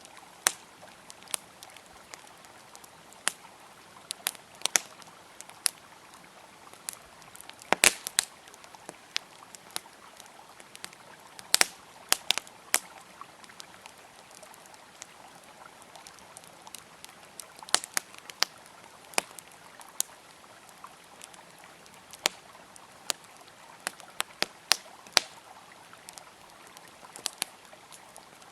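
Wood campfire crackling, with irregular sharp pops and snaps, the loudest cluster about eight seconds in, over the steady rush of a flowing river.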